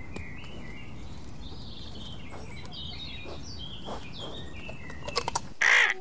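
Small birds chirping repeatedly over a steady low background rustle. Near the end the background cuts off and a short, harsh, hissing call sounds once, the loudest moment.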